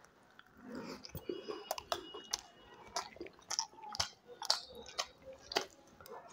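Close-miked chewing of puri dipped in vegetable curry: quiet, irregular wet mouth clicks and smacks, several a second.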